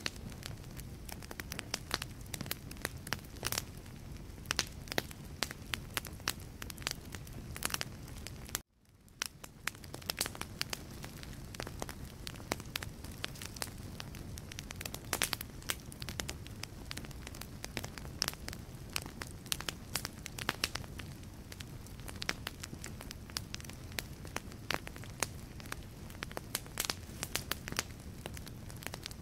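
Wood fire burning in a fireplace: a steady low rumble of flames with frequent sharp crackles and pops from the logs. About a third of the way in the sound cuts out suddenly and fades back in over about a second.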